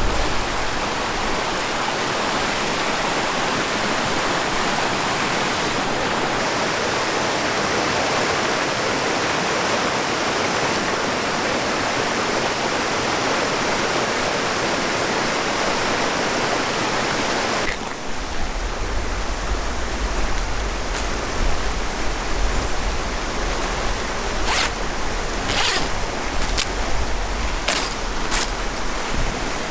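Steady rushing of a river and strong winter wind. About two-thirds of the way through the sound changes abruptly to a low wind rumble on the microphone, with a few sharp clicks near the end.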